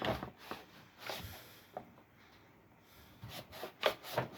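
Soft handling noises on a plastic desk fan: a few scattered light knocks and brief rubbing, with a near-quiet pause in the middle and a sharper tick near the end.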